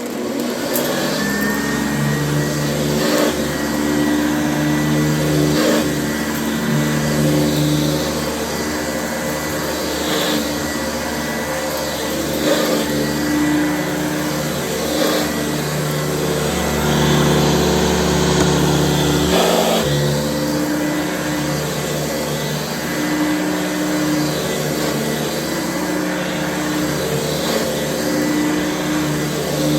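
A Hoover Convertible U4119 upright vacuum's motor starts up and runs, with a steady high whine that climbs slightly as it comes up to speed. The sound swells and eases every couple of seconds as the vacuum is pushed back and forth over carpet.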